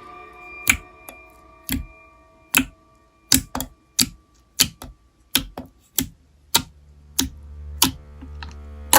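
A steady series of sharp clicks, a little over one a second, like a ticking sound effect, over a few held music tones that die away. Low music swells in near the end.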